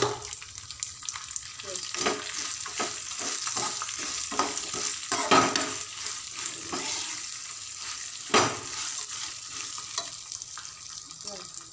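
A tempering of peanuts, lentils, chillies and curry leaves sizzling in hot oil in a kadai while a steel spatula stirs it, scraping and knocking on the pan. Two strokes, about halfway through and again a few seconds later, are louder than the rest.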